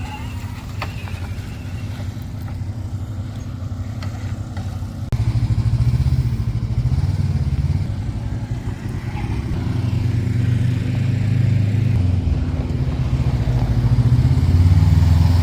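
Low rumble of an off-road vehicle on the move, growing louder about five seconds in and staying strong.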